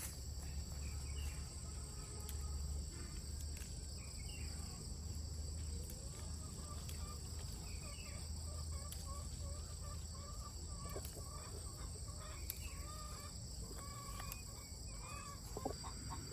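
Chickens clucking in a run of short repeated calls, over a steady high insect drone.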